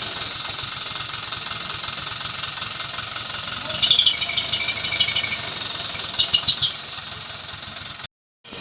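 Dump truck engine running steadily, with short bursts of high chirping twice. The sound cuts out near the end.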